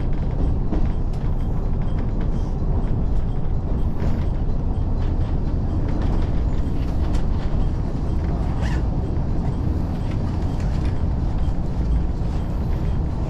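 Diesel railcar heard from inside the carriage: a steady low rumble from the running train, with scattered creaks and clicks from the car body.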